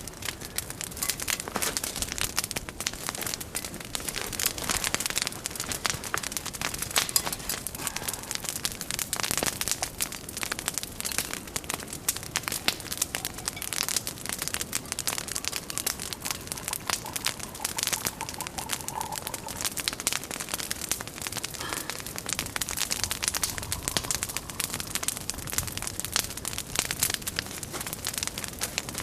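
Large log campfire burning, the wood crackling in a dense, irregular stream of small snaps and pops.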